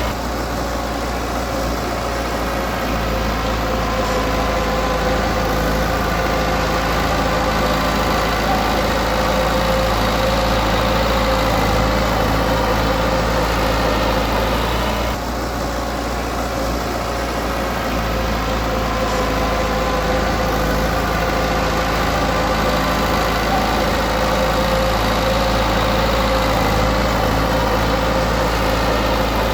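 Heavy-equipment diesel engine running steadily, easing off briefly about halfway through and then picking up again.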